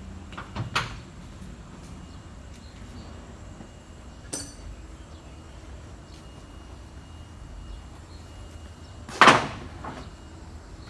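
A few scattered hammer blows on metal, a hammer striking a bar against the forklift's hydraulic boom cylinder while it is being opened. There are two light knocks near the start, a short ringing tap a little past the middle, and the loudest, heaviest blow a little past nine seconds.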